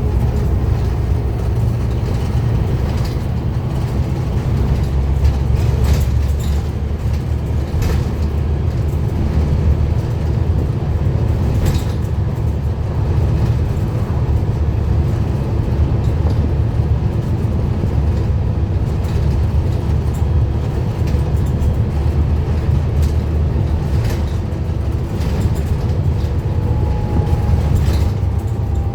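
Scania N230UD Omnicity double-decker bus's diesel engine running steadily with a low drone, with a few brief clicks and knocks.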